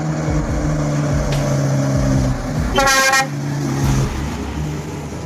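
A vehicle engine drones steadily at a low pitch, with a short horn toot about three seconds in.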